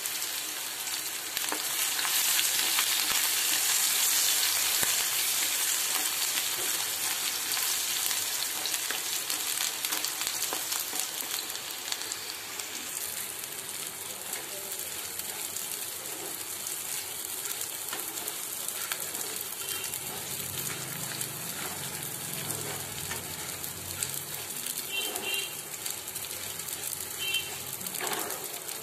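Peanuts, chopped onions and vermicelli frying in hot oil in a pan, stirred and scraped with a wooden spatula. The sizzle is loudest in the first few seconds, then settles lower, with light scraping clicks throughout.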